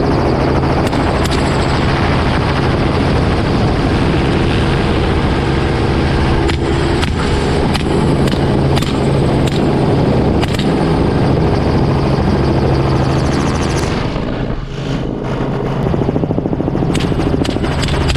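Helicopter running steadily in flight, with several sharp cracks of rifle shots spread through it.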